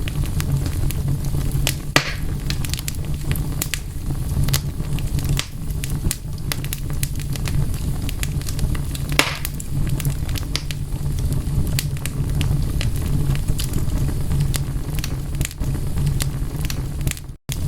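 Wood fire crackling over a steady low rumble, with scattered sharp pops, two louder ones about two and nine seconds in. There is a split-second gap of silence near the end.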